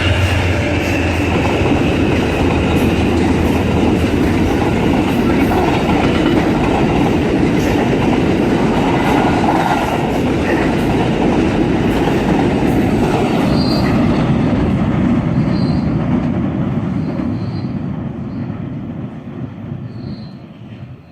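Train passing without stopping, a steady noise of wheels on rails that dies away over the last few seconds as it goes.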